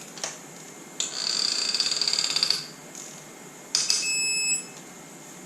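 An electronic torque wrench beeping while a cylinder-head bolt is tightened: a rapidly pulsing buzzy tone for about a second and a half, then a steady beep a little after, signalling the bolt has reached its set torque. A short click sounds just before.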